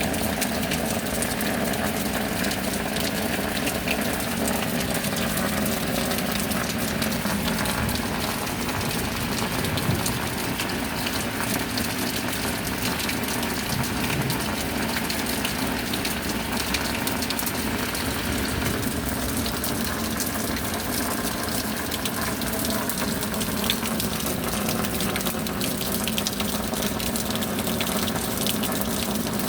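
Steady rain: an unbroken hiss of falling water, dense with small drop impacts, at an even level throughout.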